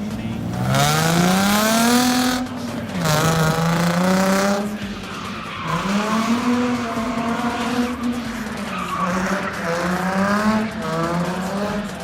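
Car engine revving hard through a drift, its pitch climbing, dropping and climbing again several times, with tyres squealing loudly in two long stretches during the first five seconds.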